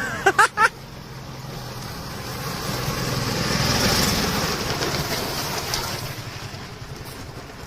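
A small gasoline-engined mini car driving past. Its engine noise swells to a peak about four seconds in, then fades away. Near the start come three short, loud, high-pitched chirps, the loudest sounds here.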